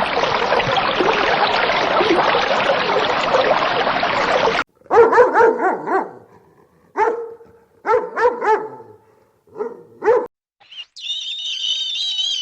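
A dog barking: a run of sharp barks in uneven clusters, with short pauses between them. Before the barking, a dense steady noise that cuts off suddenly; near the end, high wavering chirps begin.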